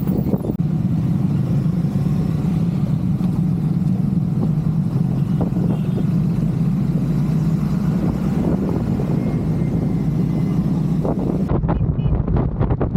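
Triumph Scrambler 400 X single-cylinder engine running at a steady cruising speed while riding, with wind rush over the helmet-mounted microphone.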